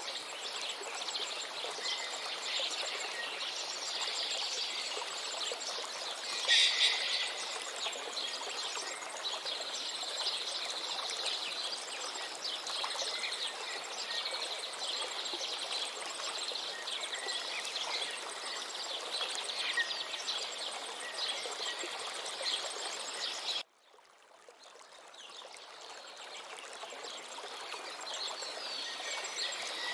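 A river runs steadily while small birds chirp throughout, with one louder, closer call about six and a half seconds in. Near the end the sound cuts out abruptly and fades back in over a few seconds.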